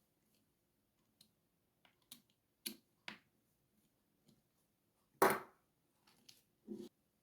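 Scattered clicks and knocks of plastic RC truck parts and small tools being handled during reassembly of the front suspension, the loudest a short clatter about five seconds in.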